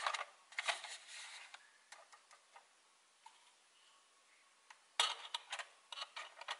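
Hard plastic toy cow parts clicking and knocking as a leg is handled and pressed into its socket in the body: faint clusters of small clicks at the start and again about five seconds in, with a quiet gap between.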